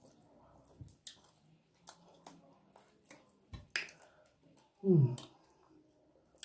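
Mouth sounds of eating with the hands: scattered lip smacks and wet chewing clicks. About five seconds in comes one short, low voice sound, falling in pitch, which is the loudest thing.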